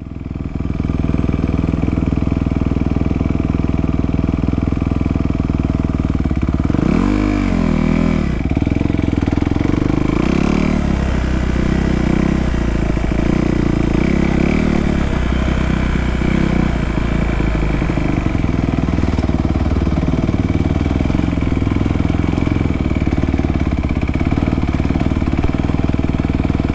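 Dirt bike engine running, revving up and back down about seven seconds in and several more times a few seconds later, then holding a steady pace.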